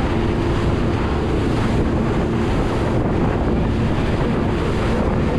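Boat engine running steadily with a constant low hum as the boat travels, with heavy wind buffeting the microphone and water noise.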